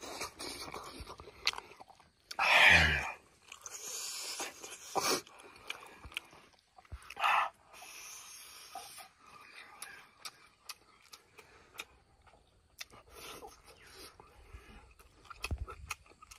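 Close-miked, wet chewing and lip-smacking of a man eating pork and rice by hand, with many small mouth clicks. About two and a half seconds in, the loudest sound is a vocal grunt with a falling pitch.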